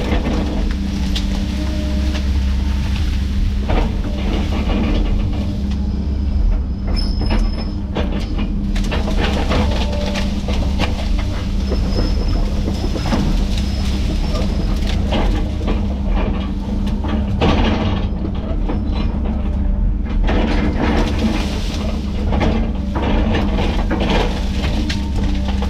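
Heavy tracked land-clearing machine's diesel engine running steadily under load, with frequent cracks and clanks throughout.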